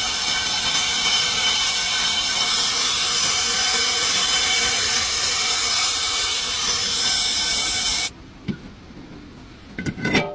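A pressurised jet hissing loudly and steadily, with a faint whistle in it, starting sharply and cutting off suddenly about eight seconds in.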